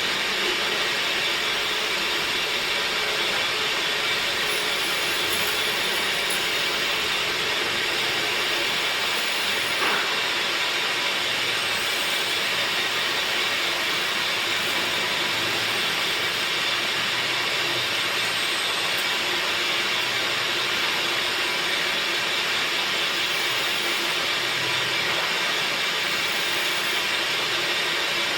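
Wood lathe running steadily with a tool cutting into teak wood, a continuous even hiss.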